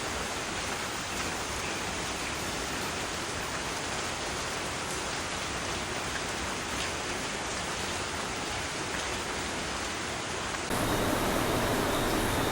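Steady recorded rain: an even, unbroken hiss of falling rain. About two seconds before the end it cuts abruptly to a louder, rougher rushing noise.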